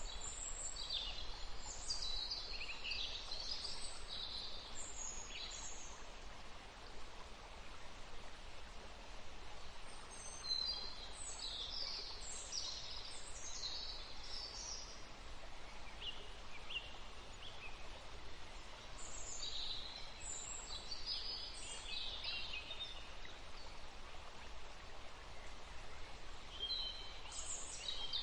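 Songbird singing in bouts of rapid, high chirping notes, each bout a few seconds long and separated by pauses of several seconds, over a steady outdoor background hiss.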